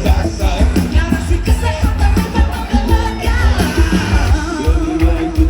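Live pop-rock band playing loudly with a singer's voice over it and a strong pulsing bass and drum beat.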